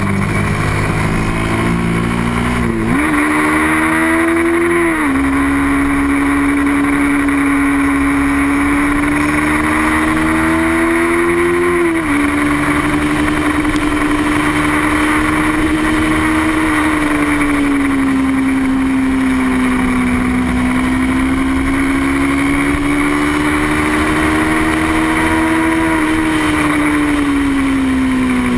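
Small-displacement sport motorcycle engine at high revs during a race. Its pitch climbs slowly and drops sharply a few times, about three, five and twelve seconds in and near the end, over a steady rush of wind noise.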